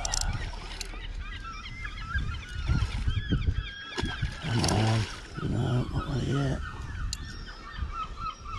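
Birds calling over and over, many short rising and falling calls, with a louder, lower run of calls in the middle.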